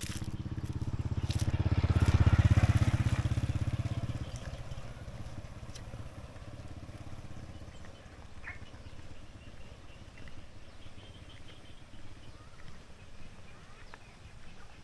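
A motorbike engine passing close by. It grows louder to a peak about two and a half seconds in, then dies away and cuts off about four seconds in.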